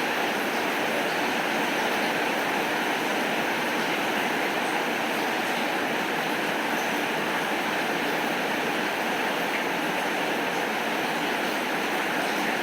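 Steady heavy rain, an even rushing hiss with no thunder or single drops standing out.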